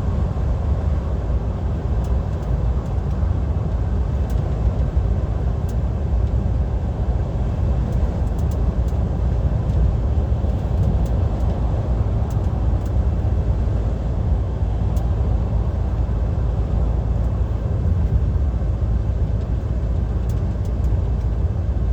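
Steady in-cab drone of an unladen DAF XF 530 lorry cruising at motorway speed: engine and tyre-on-road noise, heaviest in the low rumble and unchanging throughout.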